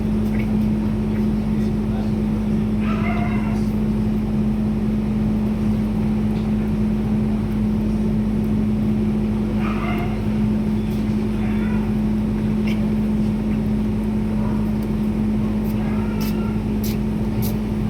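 A steady machine hum with a constant low tone, with faint, brief voices now and then.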